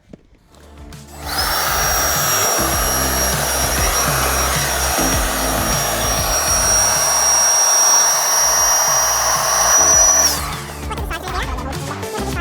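Makita 18V cordless blower starting up about a second in and running with a steady high whine and rush of air as it inflates the inflatable boat's hull chambers, then winding down after about nine seconds. Background music plays underneath.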